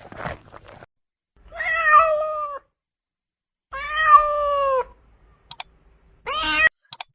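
Domestic cat meowing: two long, drawn-out meows of about a second each, falling slightly in pitch at the end, then a short rising meow near the end. A few sharp clicks come between the calls.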